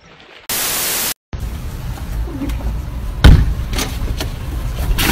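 A short burst of even, static-like hiss, then rumbling outdoor sound with a loud thump a little over three seconds in and a few lighter knocks after it.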